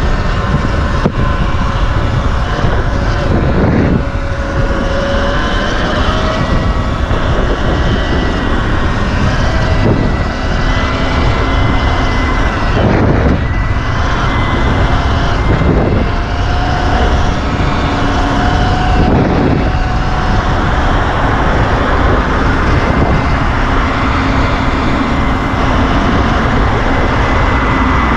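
Wind rushing over the microphone of a moving Sur-Ron electric dirt bike, with a thin electric-motor whine that drifts slowly up and down in pitch as the speed changes. Brief louder gusts come every few seconds.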